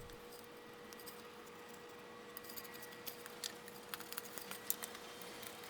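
Faint light clicks and ticks, scattered through the second half, over a steady low hum.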